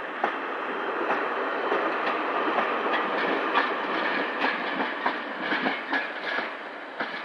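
A Pacer diesel railbus passing close by at low speed: a rumbling run of wheels with irregular clicking and clacking over rail joints and pointwork. It is loudest a couple of seconds in and fades as the unit draws away.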